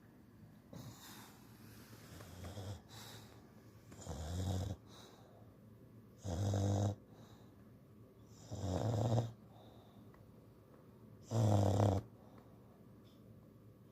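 English bulldog snoring in its sleep: a low, pitched snore on each breath, about every two and a half seconds. The first few are faint, and the rest are louder.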